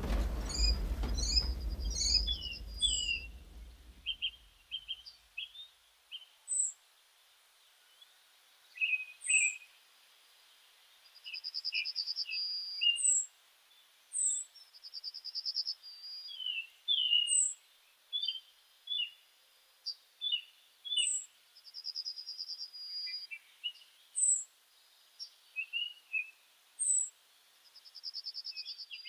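Several birds singing and chirping: quick chirps, a high thin note repeated every couple of seconds, and a short buzzy trill about every five seconds. A low rumble fades out over the first few seconds.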